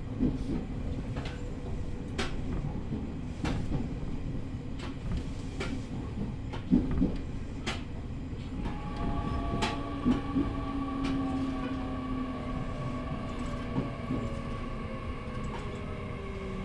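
E501 series electric train heard from inside the car, rumbling along with wheels clicking over rail joints. About halfway through, the motors start a whine of several tones that slowly falls in pitch as the train brakes for the station.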